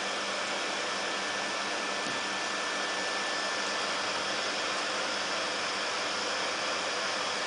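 Vacuum cleaner running steadily, an even rush of noise with a faint high tone that fades out about halfway through.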